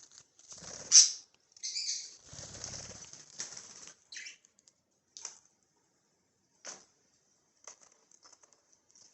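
Budgerigars flapping their wings in a few flurries over the first four seconds, followed by a few short, scattered chirps.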